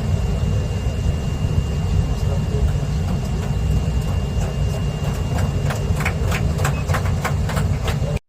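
Metro train running: a steady low rumble with a faint, steady high-pitched tone, and a run of sharp clicks coming more and more strongly in the second half.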